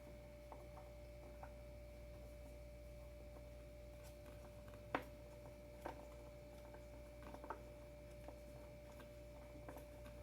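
Near silence: faint room tone with a steady thin hum, broken by a few light clicks.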